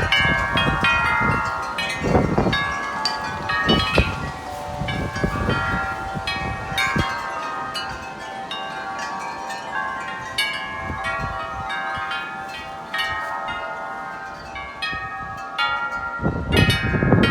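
Tubular wind chimes ringing constantly, their tubes struck over and over by strong gusting wind. Gusts rumble on the microphone, heaviest at the start and again near the end.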